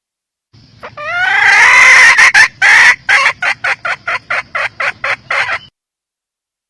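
Red junglefowl hen calling: a drawn-out squawk rising in pitch about a second in, then a run of about a dozen short clucks, roughly four a second, that stops suddenly.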